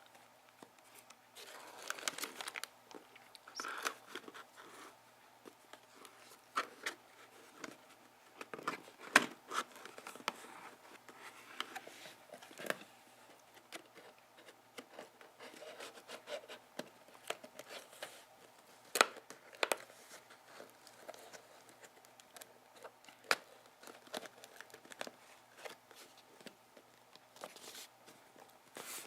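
Paper or plastic packaging handled close to the microphone: irregular crinkling, rustling and tearing, broken by sharp clicks and snaps.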